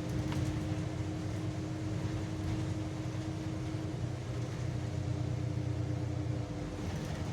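Solaris Urbino 12 city bus running on the road, heard from the driver's cab: a steady low engine drone with a constant hum over it. The engine drone drops away about six and a half seconds in.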